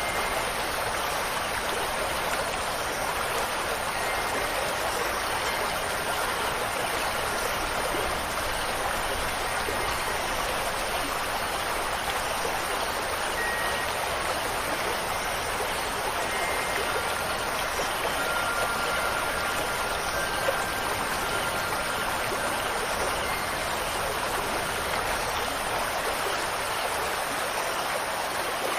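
Steady rushing water, an even hiss that does not change, with a few faint brief high tones here and there.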